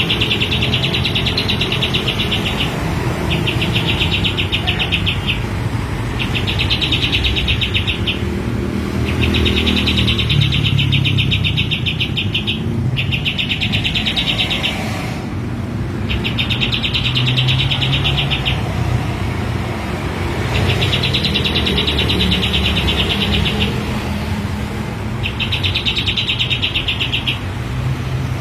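Kapas tembak bulbul singing its long, rapid rattling trill song, about nine trills each lasting a couple of seconds with short pauses between, over a steady low rumble.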